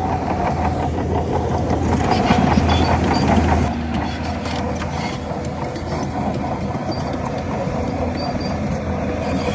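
Bulldozer's heavy diesel engine running under load with a steady low drone, working harder for about a second and a half around two seconds in, then easing off. Short high squeaks and clinks from the running gear sound throughout.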